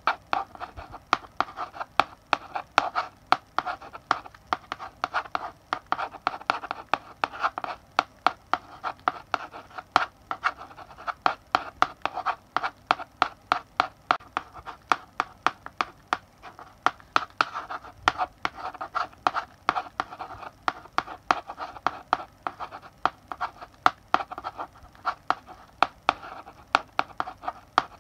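Chalk writing on a blackboard: quick taps of the chalk striking the board, several a second, mixed with scratchy strokes.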